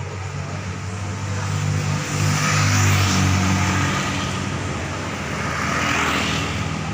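Car engine running and driving past, louder around three seconds in and again near six seconds, with tyre and wind hiss swelling at each peak.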